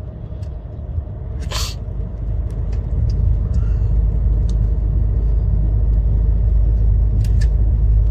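Low rumble of a diesel truck's engine and tyres heard inside the cab while driving, growing louder over the first few seconds and then holding steady. A few short sharp clicks sound over it.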